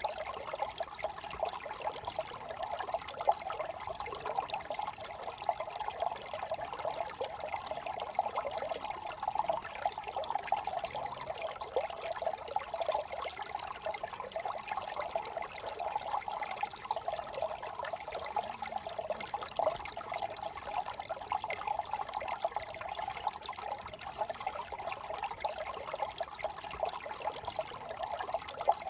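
Small brook trickling steadily, a dense patter of little splashes as water runs over stones.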